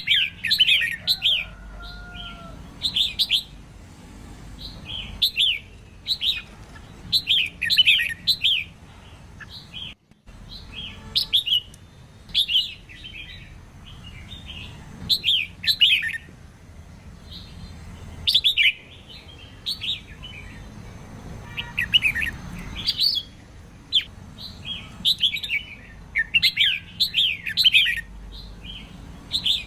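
Female red-whiskered bulbul singing: short phrases of quick, bright chirping notes, repeated every second or two, with a brief break about ten seconds in.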